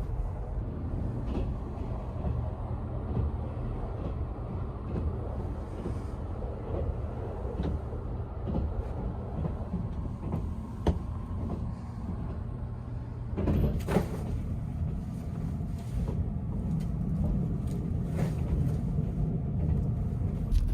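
Inside a West Express Ginga train carriage: a steady low rumble of the train under way, with scattered light clicks and knocks and a louder clatter about fourteen seconds in.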